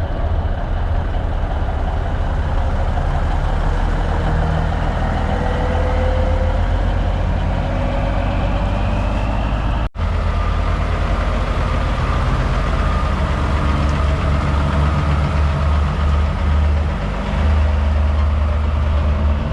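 Big-rig truck diesel engines idling, a steady low rumble with a slowly rising tone partway through. The sound drops out briefly about ten seconds in.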